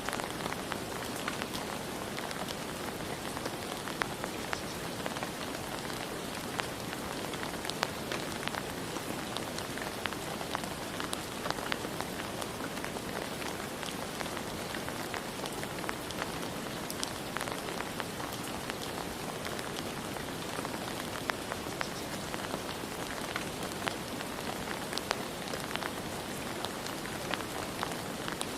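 Steady rain falling, with many separate drops pattering sharply on a hard surface.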